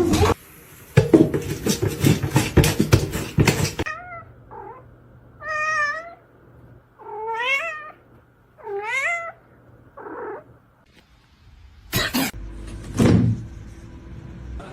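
A cat meowing about five times, long wavering calls, each under a second. Before the meows there are a few seconds of dense rapid clattering, and near the end there is a loud sudden burst.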